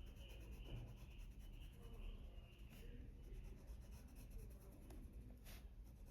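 Faint scratching of a colored pencil on paper, laid down with light pressure in small circular strokes.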